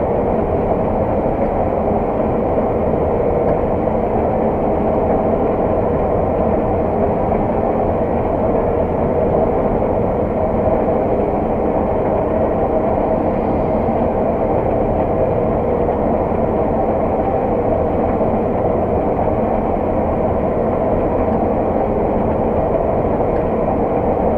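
Steady drone of a farm machine's diesel engine heard from inside its cab, a constant low rumble with an even hum on top and no change in speed.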